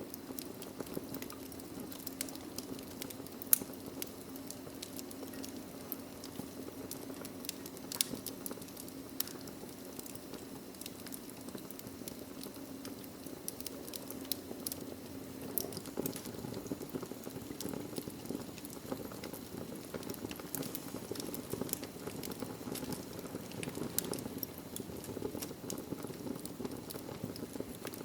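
Wood logs burning in a fireplace, crackling with many scattered sharp pops over a steady low hum of flame. The loudest snaps come about three and a half seconds in and again about eight seconds in.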